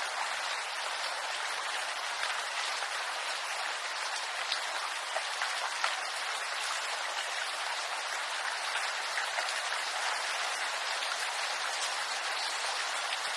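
Steady rain falling through a bamboo grove: a dense even patter of drops on leaves, with a few closer, louder drips now and then.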